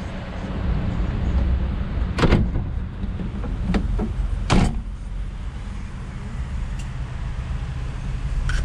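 Steady low hum of an idling car engine heard from inside the cabin, with a few sharp knocks about two, three and a half and four and a half seconds in.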